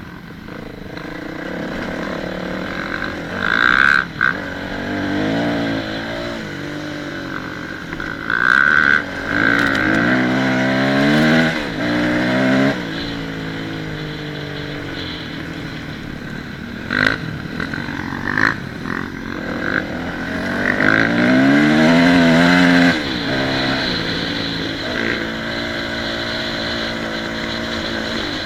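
Dirt bike engine revving up and easing off over and over as it is ridden, the pitch climbing and then falling back several times. There are several short, loud buffets on the microphone.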